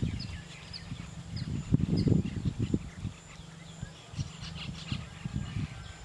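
Short, high bird chirps, repeated now and then, over louder irregular low rumbling thumps that come in clusters, strongest about two seconds in.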